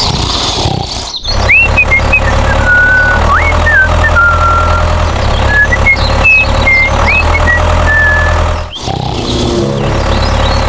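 A heavy diesel engine, most likely a tractor's, running steadily with a constant low rumble. Short high sliding whistles sound over it through the middle, and the sound cuts off briefly twice.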